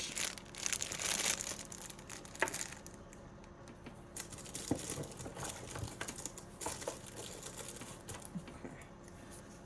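Packaging crinkling and rustling as it is handled, with scattered small clicks and taps. It is louder in the first second or so, then quieter.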